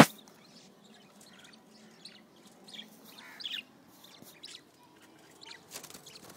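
Pet parrots chirping in short, scattered calls. A sharp click sounds at the very start.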